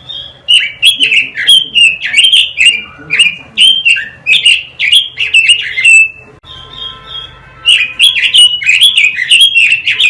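Quế lâm bird singing: a fast run of sharp, downward-sliding chirps. It breaks off about six seconds in and starts again a couple of seconds later.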